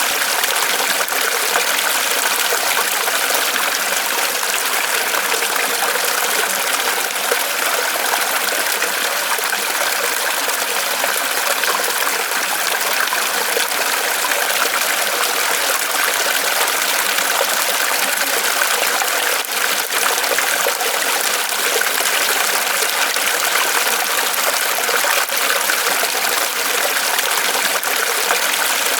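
Water trickling and splashing in a small waterfall spilling off a tree trunk: a steady, even splashing with no pauses.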